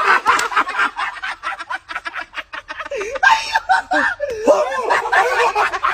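People laughing: a run of rapid bursts of laughter, then wavering, drawn-out laughing voices.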